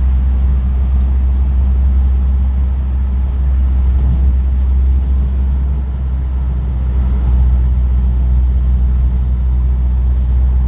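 Car engine and road noise heard from inside the cabin while driving: a steady low drone at an even pace.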